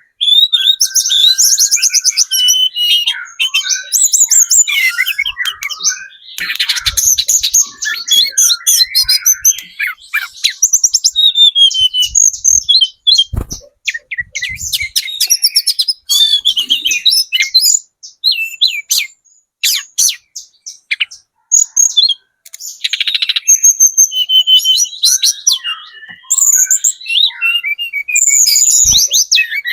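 Juvenile hill blue flycatcher (tledekan gunung, spotted 'trotol' plumage) singing loudly: a rapid, busy stream of high twitters, trills and chirps with short pauses, thinning out for a few seconds past the middle.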